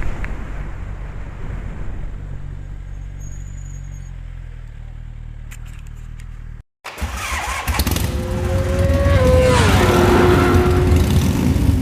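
Kawasaki Ninja ZX-10R sportbike's inline-four engine running. It fades over the first six seconds; after a sudden cut it comes back louder, and about nine seconds in its pitch falls, then holds steady.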